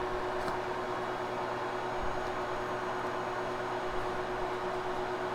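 Steady motor whir with a constant hum tone, unchanging throughout.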